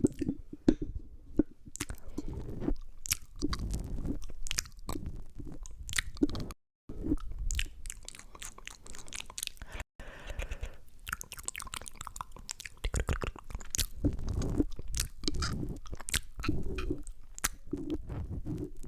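Close-miked ASMR mouth sounds: wet clicks, smacks and licking right on the microphone, with low rumbling as the mouth touches it. Twice the sound cuts out for a moment.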